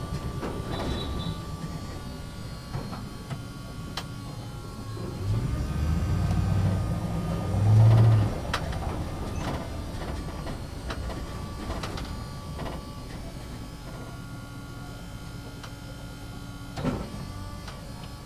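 Backhoe running with a steady mechanical hum and whine, with scattered clicks and knocks. The sound swells from about five seconds in to a loud peak around eight seconds, then settles back.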